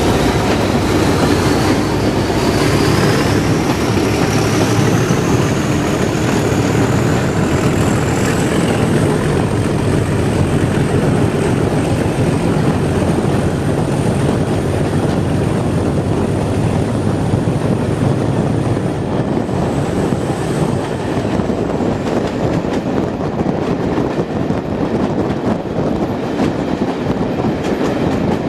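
Heritage diesel train running on the rails, with a steady, loud rumble and a whine that rises in pitch over the first several seconds, then holds steady and fades out a little past the middle.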